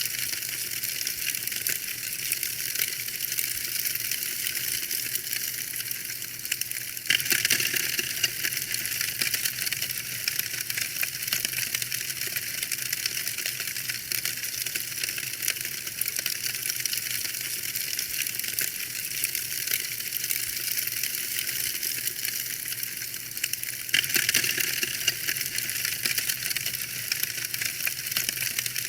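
Wood fire crackling: a dense stream of small, quick pops and snaps. The crackle steps up into a louder, sharper patch of pops about seven seconds in, and again near the end.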